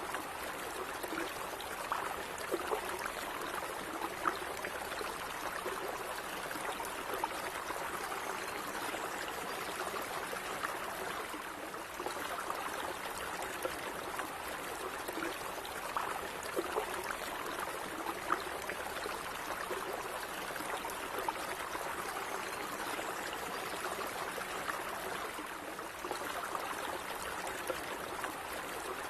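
A gently flowing stream of water, a steady babble with small splashes and gurgles.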